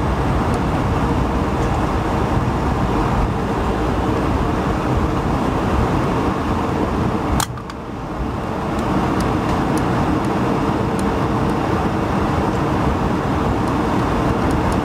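Airbus A220-100 cabin noise by the wing: its Pratt & Whitney PW1500G geared turbofan engines running with a steady rush and a faint steady hum. About halfway through, a sharp click and a brief drop in level.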